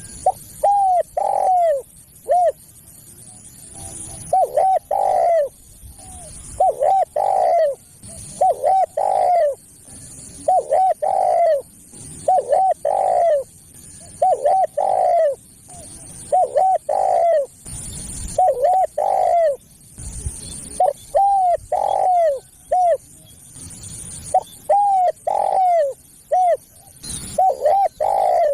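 Spotted dove (tekukur) cooing in a caller recording used to lure doves. It repeats a phrase of three or four short coos about every two seconds.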